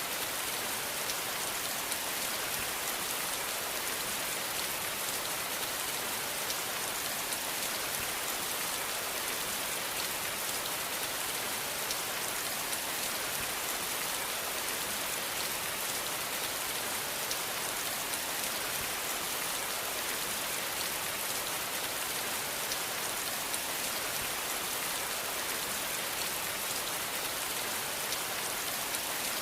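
Steady rain falling, an even hiss with many fine drop ticks, without thunder.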